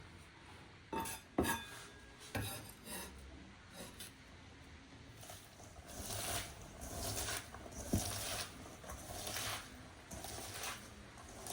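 Food being prepared by hand on a work surface: a few sharp knocks, then, from about halfway, repeated rubbing or scraping strokes.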